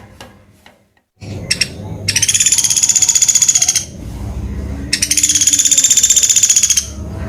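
Common flameback woodpecker (pelatuk beras) giving two long, rapid, high-pitched rattling calls, each about two seconds long and about a second apart, over a low background rumble.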